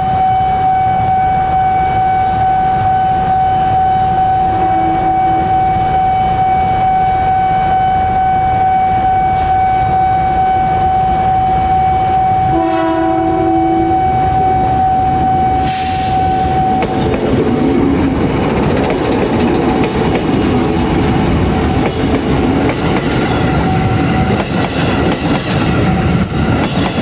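A steady high warning tone sounds for about the first seventeen seconds, with short horn notes near the middle. Then a KRL electric commuter train passes close by, its wheels clacking rhythmically over the bolted rail joints.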